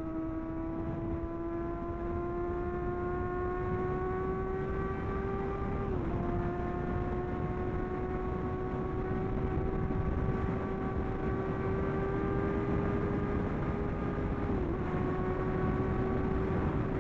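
Superbike engine under steady acceleration, its pitch climbing slowly, with two quick drops in pitch as it shifts up: about six seconds in and again near the end. Wind rushing over the helmet camera's microphone throughout.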